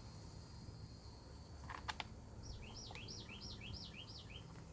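A songbird singing a quick phrase of about half a dozen repeated two-note figures, high sweeping notes alternating with lower ones, over a faint low hum; a couple of light clicks come shortly before it.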